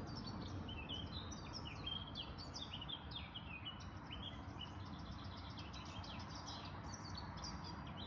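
Several small birds chirping and twittering, many short overlapping calls with no pause, over a steady low background rumble.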